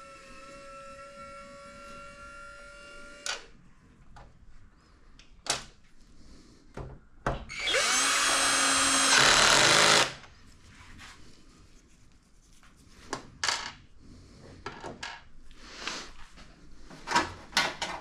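Cordless drill-driver running in two short bursts. The first is a steady whine that stops about three seconds in; the second is a louder, rougher run of about two seconds near the middle. Scattered clicks and knocks come between the runs.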